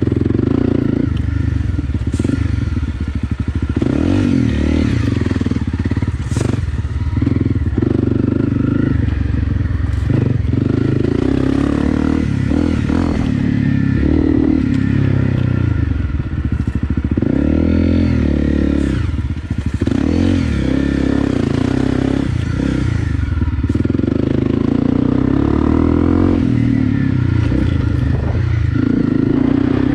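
Honda CRF250 Rally's single-cylinder four-stroke engine, fitted with an FMF PowerCore 4 exhaust, being ridden hard. The engine revs keep rising and falling with the throttle, and there are occasional knocks and clatter from the bike.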